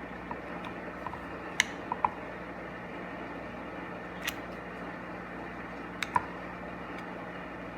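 Small sharp clicks and taps of screwdriver tips on the plastic body of an air-suspension manual switch as it is pried apart, about six in all, some in quick pairs, over a steady background hum and hiss.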